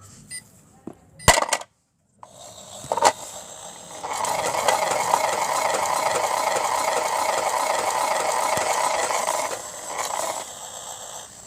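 Toy washing machine running with toy bricks rattling and clattering around inside its drum for about six seconds, after a few sharp clicks and a knock at the start.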